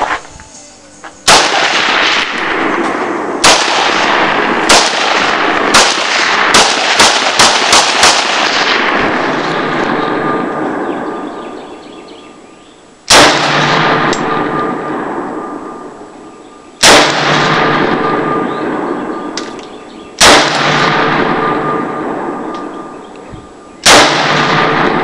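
AR-15 rifle firing .223 rounds: about a dozen shots, a quickening string in the first eight seconds, then single shots every three to four seconds near the end. Each shot is followed by a long fading echo.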